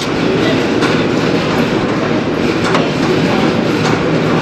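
A loud, steady mechanical rumble with a rattling edge, and a few light metallic clinks over it.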